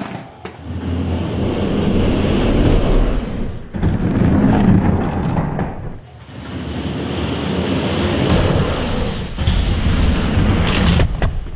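Diecast toy monster trucks rolling down a plastic race track, giving a loud continuous rumble that dips briefly twice. A few sharp knocks come near the end as the rumble stops.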